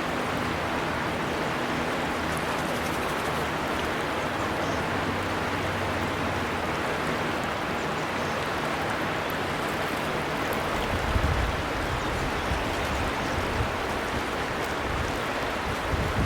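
River water flowing in a steady, even rush, with low rumbles coming and going in the second half.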